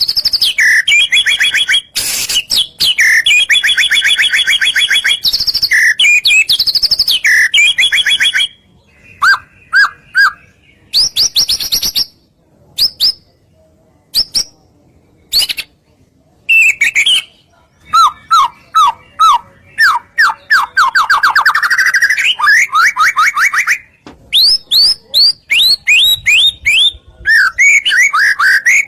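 White-rumped shama (murai batu) singing loudly in full song: fast trills and chattering phrases, a stretch of scattered single notes with short gaps in the middle, then quick runs of repeated sweeping notes.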